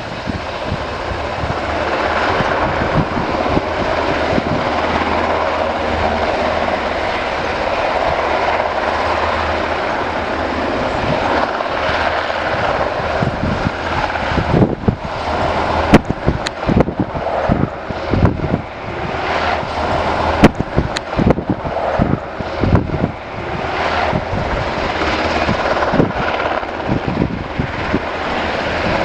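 UH-60 Black Hawk helicopter running, a steady turbine and rotor rumble that builds over the first couple of seconds. From about halfway on, irregular sharp pops and knocks break through it.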